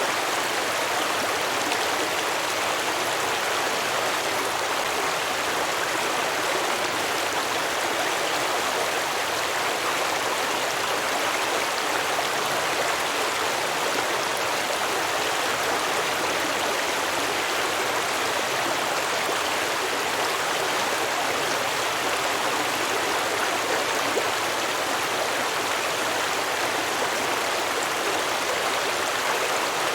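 A small stream flowing and babbling over rocks, a steady, even rush of water with no changes.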